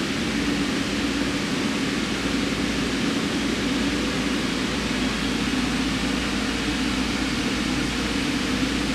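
Steady, unchanging machine hum and hiss from a powered-up CNC machine tool, with a low droning band beneath an even wash of noise.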